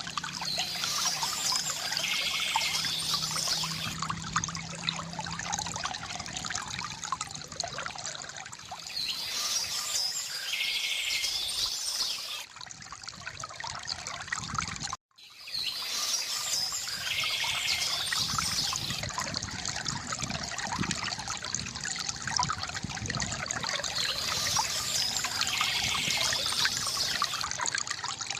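A small stream trickling and gurgling steadily, with songbirds singing on and off over it. About halfway through the sound cuts out for an instant and then resumes.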